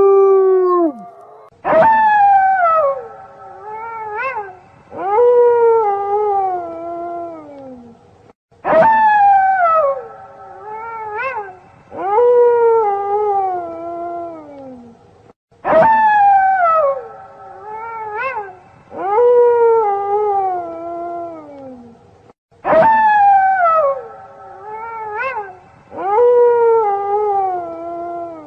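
Wolf pack howling: several overlapping voices, each a howl that slides down in pitch, in a short sequence that starts abruptly and repeats identically about every seven seconds as a loop.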